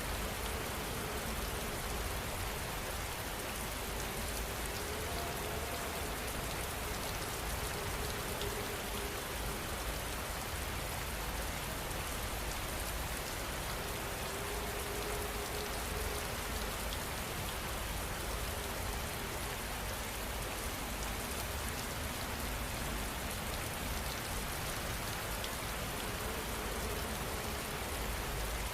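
Steady heavy rain, with many individual drops pattering on a surface.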